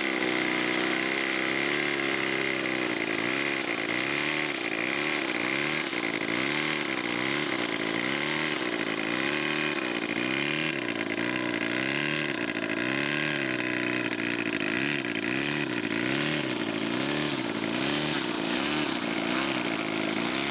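Four-stroke model-aircraft engine, a Saito 270 in a 1/3-scale Nieuport 17, running at idle after landing, its pitch wavering up and down about once a second.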